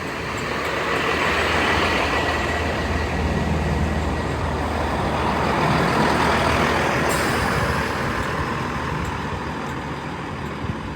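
Class 166 diesel multiple unit pulling into the platform. Its engines and wheel noise grow to a peak around the middle, then ease off as the train slows to a stop, with a faint thin squeal early on.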